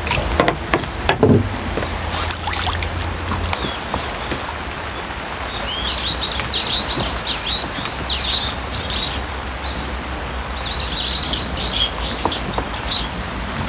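A small songbird calling in two runs of quick, arching chirps, over a steady hiss of light rain on the pond. A few sharp knocks near the start.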